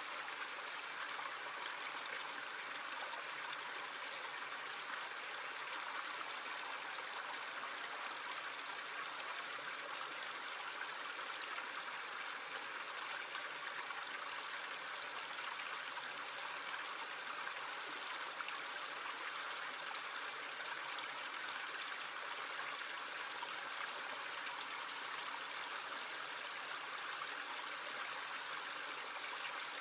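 Stream running steadily over stones, a constant rushing trickle of water.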